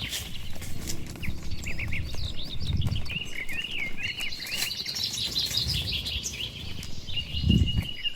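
Small birds chirping and twittering in a busy chorus of short calls, with a low rumbling noise underneath that swells most strongly about seven and a half seconds in.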